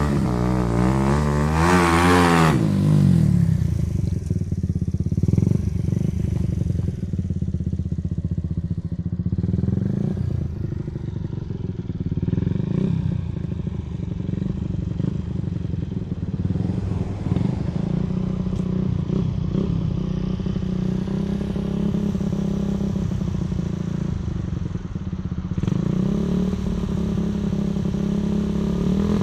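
Suzuki FX 125 motorcycle engine revving with a wavering, rising pitch for the first couple of seconds, then running steadily at low revs with a rapid exhaust putter, and picking up again a few seconds before the end.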